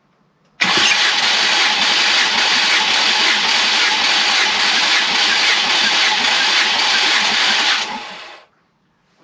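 Ford Mondeo ST220's 3.0 V6 engine being cranked over on its starter motor for about seven seconds during a compression test, starting abruptly and dying away near the end. Each crank builds pressure on a gauge that reads about 200 psi on these cylinders.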